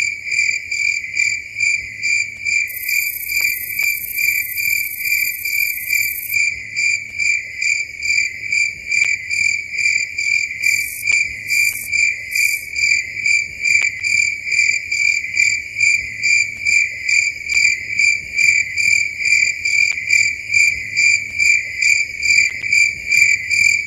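Cricket chirping steadily in an even, pulsing rhythm of about two to three chirps a second. A second, much higher insect-like buzz joins for a few seconds near the start, and three short high buzzes come near the middle.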